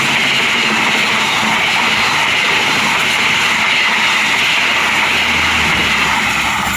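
Train passing at close range: a steady, loud rush of wheels on rail that eases off near the end.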